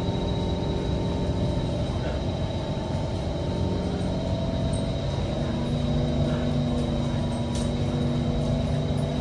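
Kawasaki C151 metro train running on the track, heard from inside the car: a rumble under several steady motor tones whose pitch steps to a new set about halfway through as the train pulls away from a station.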